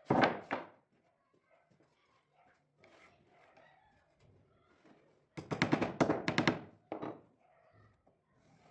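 A few sharp knocks, then a fast run of knocks and clatter about five and a half seconds in, with faint handling noise between.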